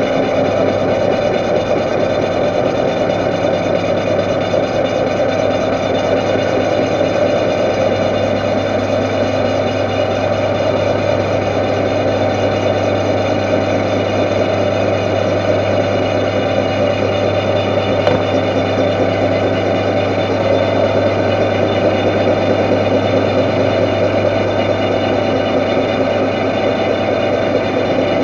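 Metal-turning lathe running steadily during a turning pass, with a constant low hum and no change in speed.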